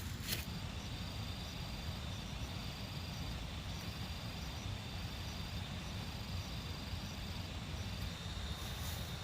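Outdoor ambience: a steady low rumble under a high, insect-like trill that pulses about twice a second over a steady high whine.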